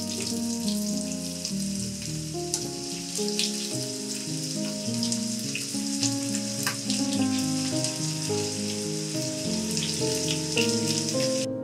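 Potato chunks frying in hot oil in a nonstick pan: a steady sizzle with scattered crackles and pops that cuts off abruptly just before the end. Background music plays underneath.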